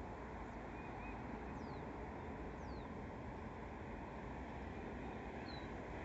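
Steady rushing background noise with birds calling over it: two quick, high, falling whistles about a second and a half and two and a half seconds in, and a short chirp near the end.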